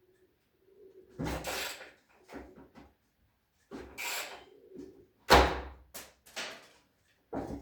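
Irregular knocks, scrapes and clatter of parts and tools being handled, with a sharp knock about five seconds in as the loudest sound.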